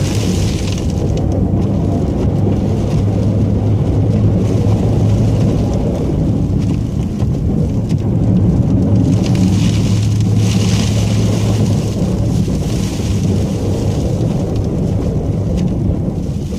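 Plow truck running steadily, heard from inside the cab, with a constant low engine drone. A hiss of wet slush under the tyres comes and goes, strongest for a few seconds past the middle.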